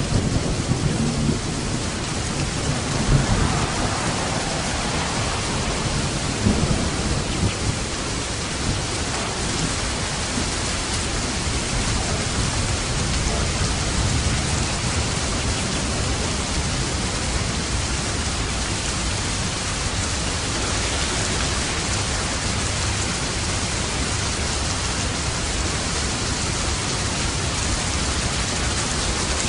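Steady heavy rain falling, with thunder rumbling low in the first few seconds and swelling briefly twice more before the rain carries on alone.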